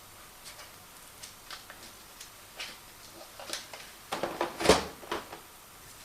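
Handling noises: scattered light clicks, then a burst of louder knocks and clacks a little after four seconds in, the loudest near the five-second mark.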